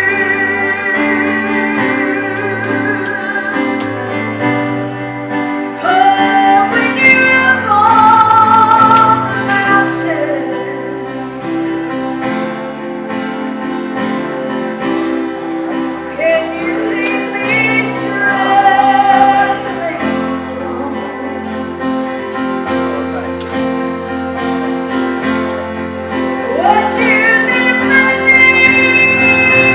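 A woman singing a gospel song with long, wavering held notes and rising slides, over steady instrumental accompaniment.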